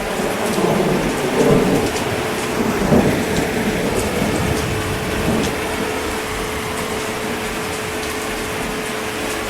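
Steady heavy rain with rumbling thunder that swells twice in the first few seconds, then settles into an even downpour.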